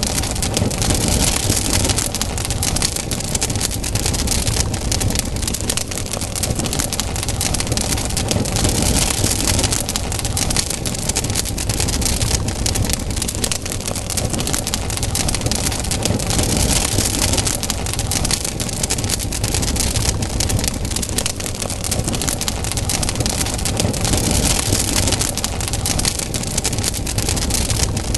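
Campfire burning, with dense crackling all through over a low rumble and a rushing hiss that swells and fades about every eight seconds.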